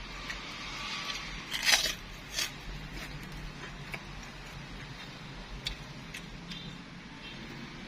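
Close-up eating sounds: a sharp crackly crunch about 1.7 s in and a shorter one soon after, then scattered small clicks and taps of chewing and utensils.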